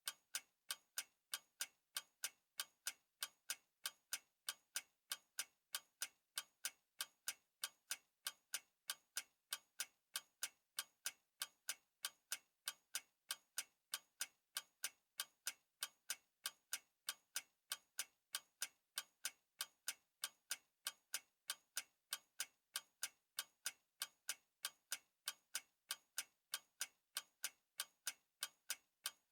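Clock ticking steadily, about two sharp, evenly spaced ticks a second.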